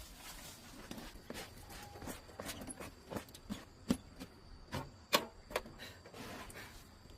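Irregular light knocks and clicks of things being handled, the two sharpest about four and five seconds in, over a faint steady high-pitched tone.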